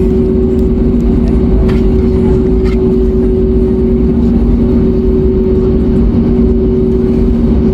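Airbus A321neo cabin noise with the jet engines running at low power on the ground: a steady two-note hum over a low rumble, with a couple of faint ticks about two seconds in.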